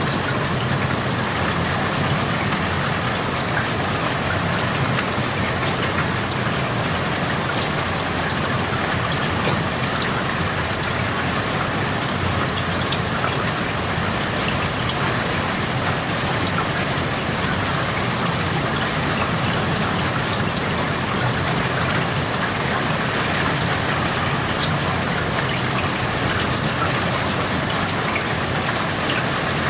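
Steady rain falling, heard through an open window, with scattered individual drops ticking over the even hiss.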